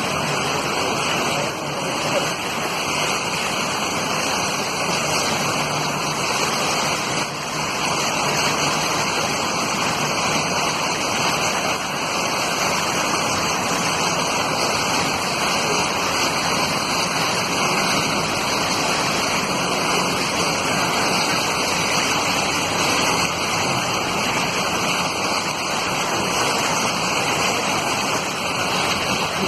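A steady, even rush of water noise on a flooded road.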